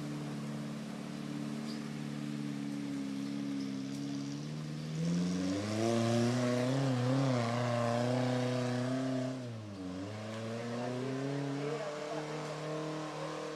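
Jeep engine working under load as it crawls through a rocky creek bed and up the bank. The revs rise about five seconds in, waver, drop briefly near ten seconds, then pick up and hold steady.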